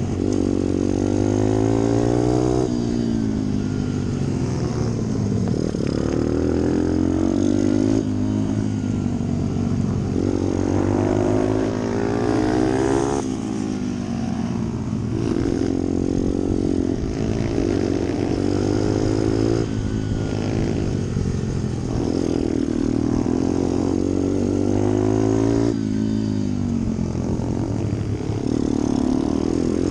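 Pit bike's small single-cylinder four-stroke engine running hard at racing revs. Its pitch climbs and then drops sharply again and again, every two to three seconds, through gear changes and corners.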